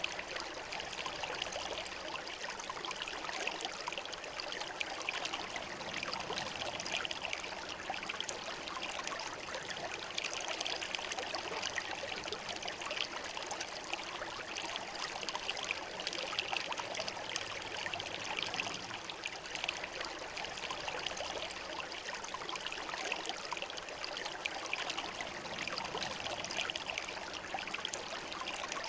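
Shallow river flowing over smooth stones: a steady babbling rush of water.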